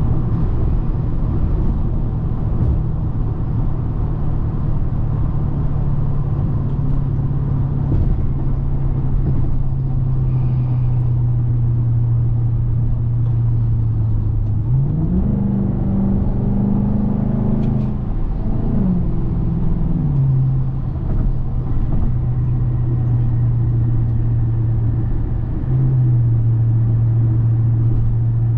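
2010 Hyundai Genesis 4.6 V8 engine and exhaust while driving, a steady low hum at light throttle. About halfway through the revs climb quickly, hold for a few seconds, then drop back to the steady cruising note.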